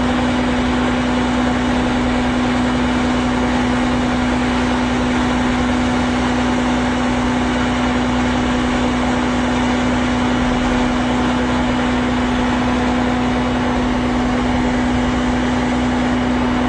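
Fire engine's diesel engine running steadily at the scene with a strong constant hum, driving the pump that feeds a booster line (redline).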